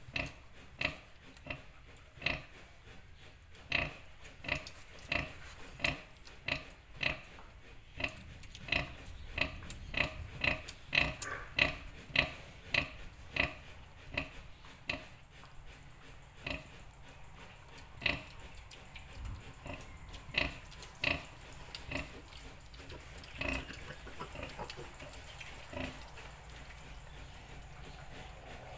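Sow grunting in a steady rhythm of short grunts, about one to two a second, quickening in the middle and thinning out near the end: the nursing grunts a sow gives while her piglets suckle.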